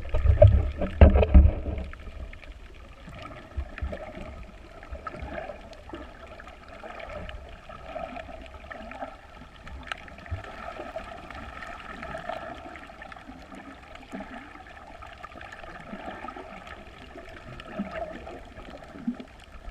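Water sloshing and gurgling close to the microphone, with a few heavy low thumps in the first two seconds.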